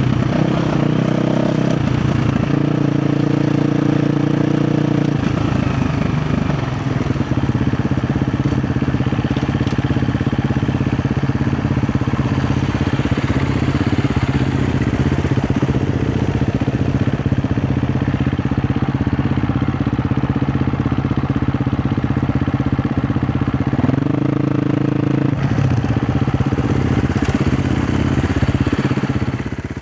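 KTM 350 XC-F dirt bike's single-cylinder four-stroke engine running mostly steady, with its pitch rising briefly a couple of times, once early on and once near the end.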